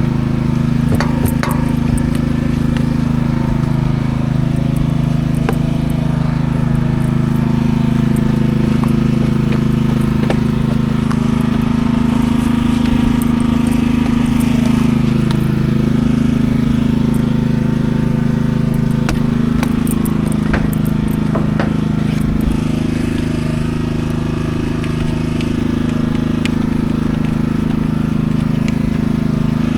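Peterbilt 379 semi truck's diesel engine running steadily, a continuous low drone.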